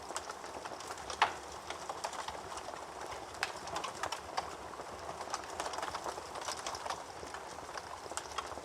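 Wood fire burning in a fireplace, crackling steadily with irregular small pops and one louder pop about a second in.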